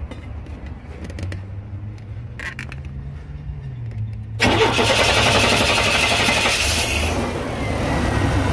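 1989 Chevy Astro's 4.3-litre V6 with throttle body injection firing up suddenly about four seconds in and running loudly, after a few faint clicks. It catches as the oil pressure switch connector is wiggled to make contact: the hot no-start is traced to a poor connection in the oil pressure switch circuit that feeds the injection.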